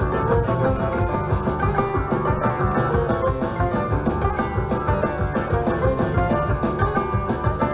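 A bluegrass-style string band playing an instrumental passage: plucked banjo and guitar over a steady driving beat.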